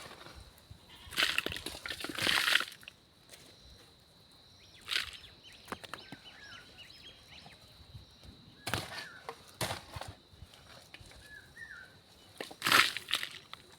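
Soil and stones being scraped and shifted in several short crunching bursts, the longest about a second in, with faint bird chirps between them and a steady thin high tone throughout.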